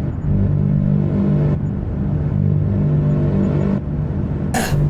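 Aircraft engine droning steadily, with a brief loud burst of noise near the end.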